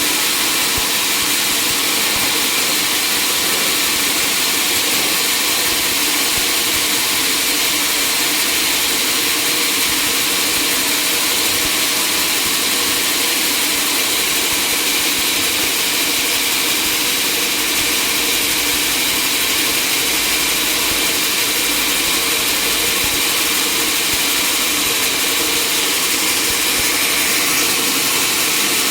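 Sawmill machinery running steadily: a loud, constant mechanical noise with a faint steady hum under it.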